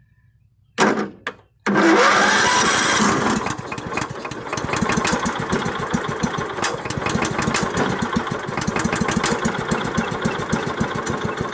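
Sawmill engine starting after sitting ten years: a brief cough just under a second in, then it catches about a second and a half in, runs fast for a moment and settles into a steady run with an even firing rhythm.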